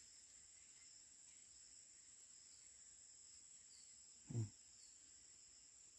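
Steady, high-pitched insect chirring, with a single brief low thump about four seconds in.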